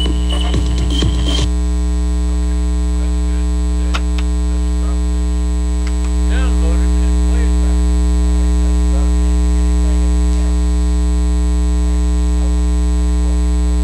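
Loud, steady electrical mains hum with a buzzy edge, with a few clicks in the first second and a half and a slight rise in level about six seconds in.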